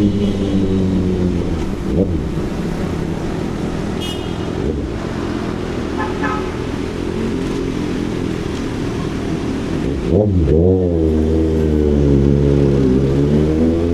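Kawasaki ZX-6R inline-four engine through an SC Project CRT exhaust. Its note falls at first, then from about ten seconds in dips and climbs again as the revs change. Brief high tones sound around four and six seconds in.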